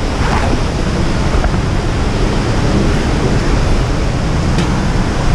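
Loud, steady rush of a large waterfall's falling water, heard close up.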